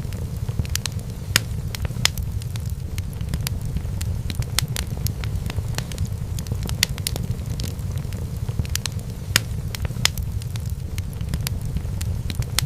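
Wood fire burning in a fireplace, a steady low rumble with frequent, irregular sharp crackles and pops.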